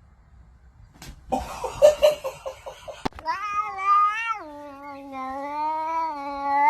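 Domestic cat: a rough, rapidly pulsing noise about a second in, then one long drawn-out yowl of nearly four seconds that drops in pitch partway and rises again just before it ends.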